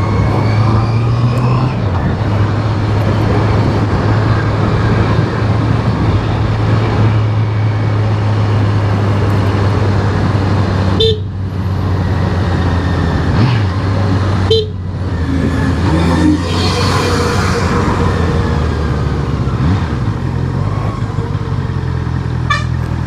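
Honda CBR650R's inline-four engine running steadily under way, mixed with wind and road noise. The engine note dips sharply twice, about 11 and 14.5 seconds in.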